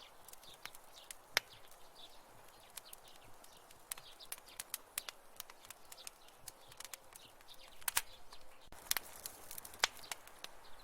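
Wood fire crackling in a fireplace: irregular sharp pops and snaps over a soft steady hiss. One loud pop comes early, and the snaps bunch together and grow louder near the end.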